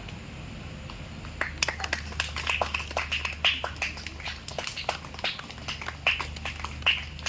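A few people clapping unevenly, starting about a second and a half in, over a steady low hum.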